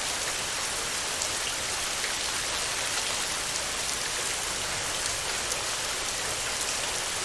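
Steady heavy rain falling on a metal roof, a dense even hiss with scattered sharper drop ticks.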